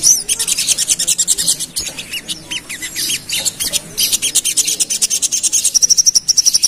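Sogon (little spiderhunter) singing a rapid, dense run of high chipping notes, about ten a second, with short falling notes mixed in and a fast even trill near the end.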